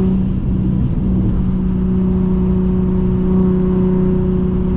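Infiniti G37x's 3.7-litre V6 engine holding a steady, loud note under acceleration while driving on a highway, heard from inside the car. The note wavers briefly about half a second in, then holds steady.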